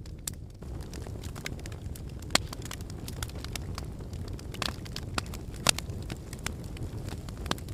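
Fire in a fireplace crackling, with irregular sharp pops over a steady low rumble of the flames; the loudest pops come about two and a half seconds and five and a half seconds in.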